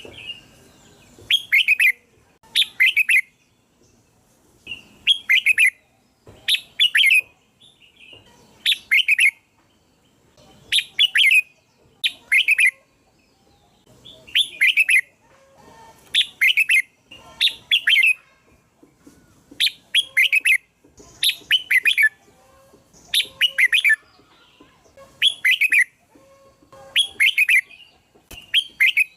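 Red-whiskered bulbul singing: short, quick, bubbly phrases of two or three notes, repeated about every two seconds.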